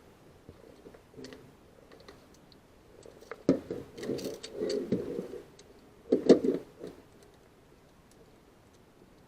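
Clicks and rattling of small hard parts being handled, in two short bouts, the second about six seconds in being the loudest.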